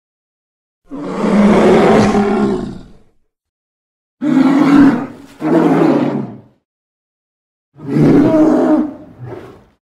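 A bear's roars used as film sound effects, in separate calls with dead silence between them. A long roar comes about a second in, two shorter roars follow back to back in the middle, and a last one near the end trails into a shorter, quieter call.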